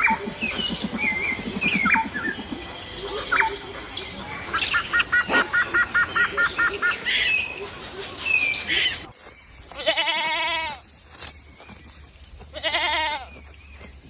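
Birds chirping, with a quick run of repeated notes in the middle, then, after a cut about nine seconds in, a goat bleating twice with a quavering call.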